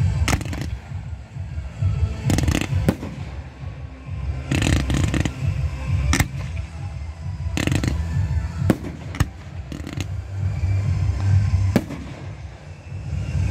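Fireworks display going off: a dozen or so sharp bangs, some in quick clusters, over a continuous low rumble.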